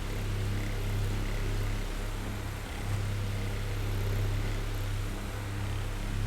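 Oscillating electric fan running: a steady low motor hum under an even airy whir, its loudness swelling and dipping gently.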